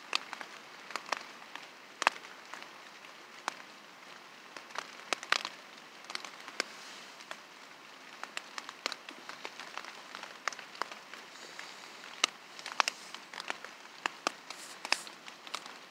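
Rain falling: a steady hiss with many irregular sharp drops and drips hitting a nearby surface.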